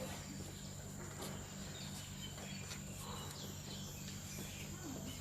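A steady high-pitched insect drone, crickets or similar, with faint short bird chirps now and then over a low, even hum.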